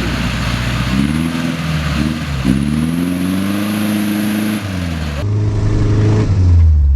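Off-road vehicle's engine revving under load: the pitch climbs about a second in, dips briefly, climbs again and holds, then falls to a deep low rumble near the end.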